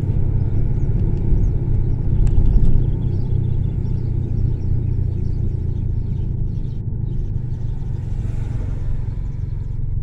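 Honda CR-V engine and exhaust running with a steady low rumble, swelling slightly about two seconds in.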